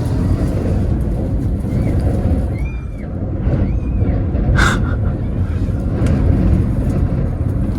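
Sandstorm wind buffeting and rumbling heavily, with a brief hissing gust about four and a half seconds in.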